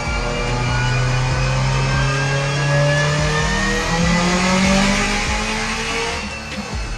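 Subaru WRX STI's turbocharged 2.5-litre flat-four, fitted with a 6466 rotated turbo kit, pulling at full throttle on a chassis dyno. Its pitch climbs steadily as the revs rise, then falls away about six seconds in as the throttle is lifted at the end of the pull.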